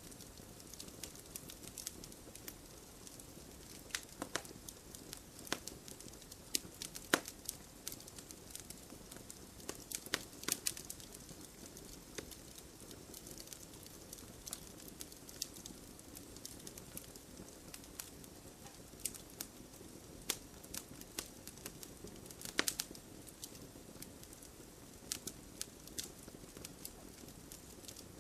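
Campfire crackling: irregular sharp pops and snaps over a low, steady hiss of burning wood.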